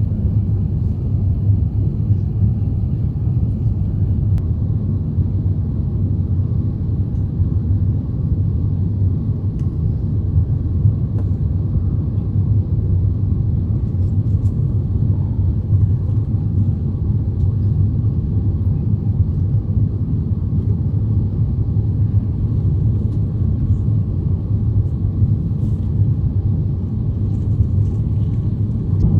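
Steady low rumble of an Airbus A350-900's Rolls-Royce Trent XWB engines and airflow, heard inside the passenger cabin in flight during the descent toward landing.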